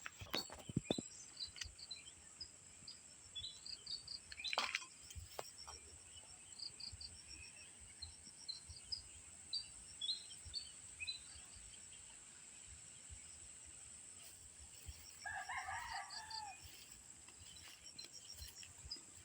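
Faint rural outdoor ambience: small birds chirping in short scattered high notes over a steady high-pitched tone, with a rooster crowing once about fifteen seconds in.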